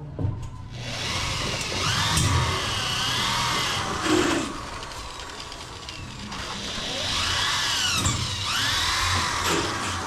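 Power drill running in two spells, its pitch rising and falling as it speeds up and slows down, with a sharp knock about four seconds in.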